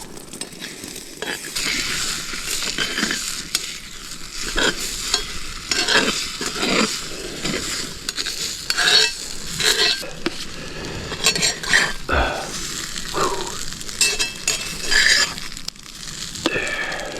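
Eggs sizzling in a hot pan while a utensil stirs and scrapes them, with irregular sharp scrapes and clinks over a steady frying hiss.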